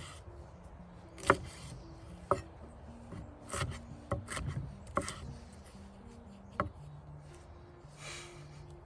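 Knife cutting bell pepper on a cutting board: a handful of sharp, irregular knocks of the blade against the board, with a brief scrape near the end.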